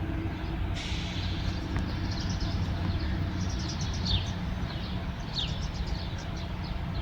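Birds calling: a few short, high chirps that fall in pitch, and quick ticking notes, over a steady low rumble.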